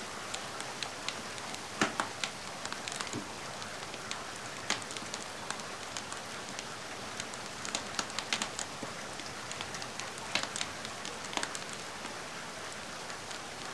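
Steady rain hiss mixed with a wood fire crackling, with sharp irregular pops scattered throughout.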